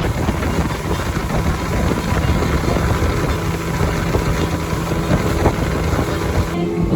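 Gladiator 9.9 outboard motor on a small boat running steadily at cruising speed: a constant engine drone, with wind buffeting the microphone.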